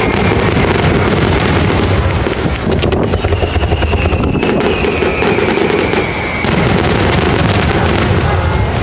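Aerial fireworks shells bursting in quick succession: a steady low rumble of booms with dense crackling, and twice a long, slightly falling whistle.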